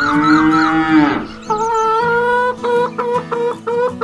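A drawn-out cow moo lasting about a second, then music with steady tones that break into a quick pulsing rhythm.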